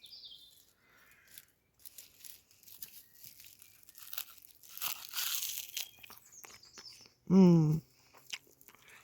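Crisp, fire-wilted stinging nettle leaves being bitten and chewed, with crunching that is thickest in the middle. A short hummed voice sound comes about seven and a half seconds in.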